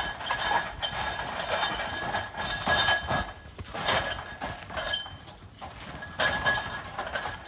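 Two sika deer moving about inside a steel box trap, hooves and bodies knocking and clinking against the metal in repeated short knocks, over strong wind noise.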